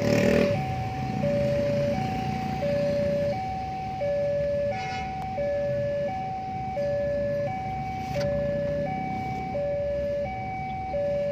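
Railway level crossing warning alarm sounding, an electronic bell alternating evenly between a lower and a higher tone, each held about two-thirds of a second. It signals that a train is approaching the crossing.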